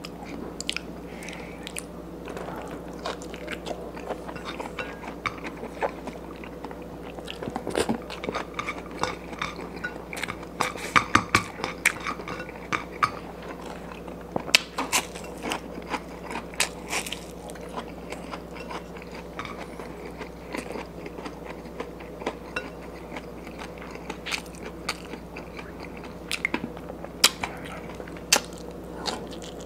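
A person eating with his hands close to the microphone: chewing and smacking, with many irregular sharp clicks, busiest from about eight to seventeen seconds in and again near the end.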